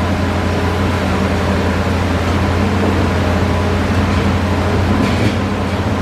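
Diesel engine of a Hitachi Zaxis excavator running steadily with a deep, even hum while it works. A short, higher-pitched noise comes about five seconds in.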